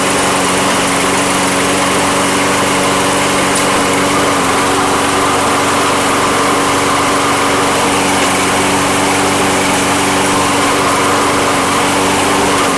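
Kohler single-cylinder engine of a Toro Recycler walk-behind mower running steadily at a constant speed after starting on the first pull. It keeps running instead of dying, now that parts from a donor Kohler mower are fitted.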